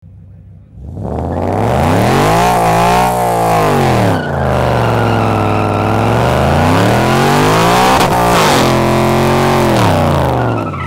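Whipple-supercharged Ford Mustang GT's 5.0-litre V8 revved hard through a burnout, the rear tyres spinning against the track surface. The revs climb about a second in and rise and fall several times.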